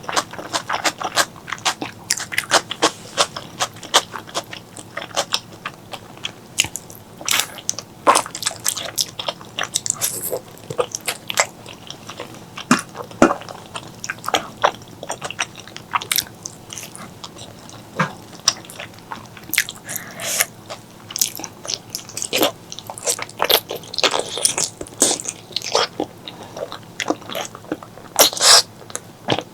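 Close-miked eating sounds: a person chewing and biting spicy pork leg curry with white rice, with many quick wet mouth clicks and smacks.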